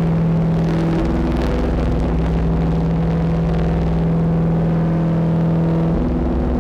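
Eurorack modular synthesizer playing a distorted ambient drone loop through Lyra8-FX distortion and Mimeophon delay: sustained tones over a deep rumble, with the bass notes changing about a second in, near four seconds and again near six seconds.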